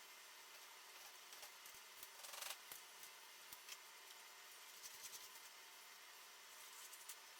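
Near silence: faint room tone with a brief soft scratch about two seconds in and a few light ticks, the sound of quiet hand work.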